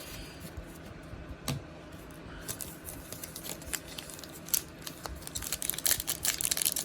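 Plastic wrapper of a football card pack being torn open and crinkled: a few scattered clicks at first, then dense crackling from about two and a half seconds in that grows busier toward the end.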